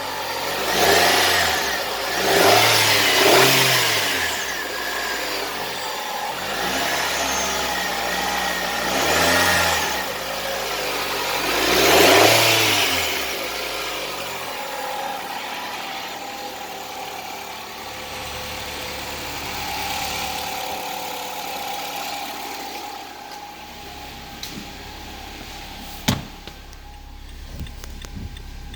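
2017 Nissan Altima engine revved in four or five quick blips, each rising and falling in pitch, then settling to a steady idle. A sharp click comes near the end.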